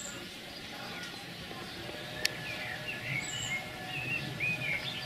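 Small birds chirping, a string of short rising and falling chirps in the second half, over a steady low background noise. One sharp click about two seconds in.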